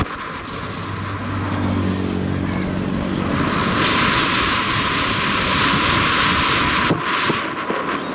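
Steady rushing noise of a moving vehicle, with a low pitched drone of several even tones from about one and a half to three seconds in.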